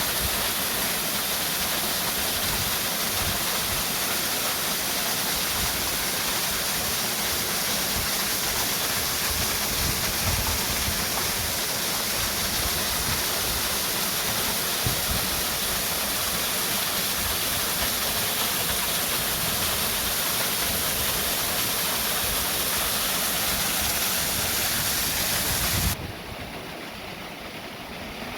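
Steady rushing noise of flowing water, with an uneven low rumble beneath it. Near the end it cuts abruptly to a quieter, duller version.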